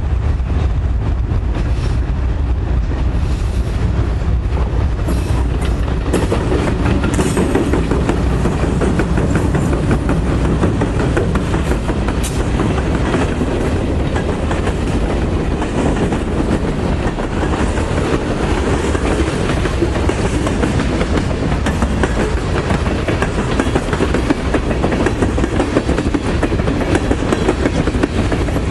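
Norfolk Southern train of freight cars and NJ Transit passenger cars rolling past, its wheels clicking over the rail joints in a steady, loud run of clickety-clack.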